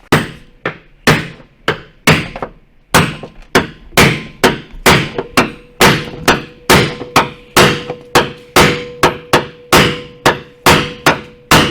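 A hammer striking car body sheet metal in a steady run of blows, two to three a second, as damaged panel metal is worked back into shape. A faint ring builds under the blows from about halfway.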